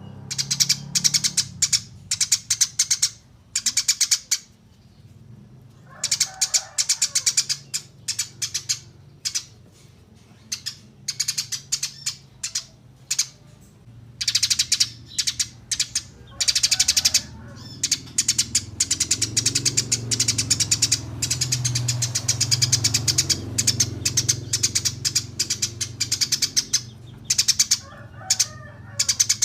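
Small songbird singing in rapid, high, buzzy trills, phrase after phrase with short pauses between them, over a faint low hum.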